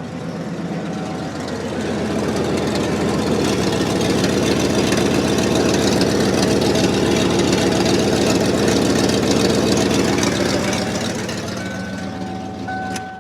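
1994 Ford F350 dually's engine running a little bit loud after starting on its newly replaced starter. It grows louder from about two seconds in, eases back near the end, and is switched off at the very end.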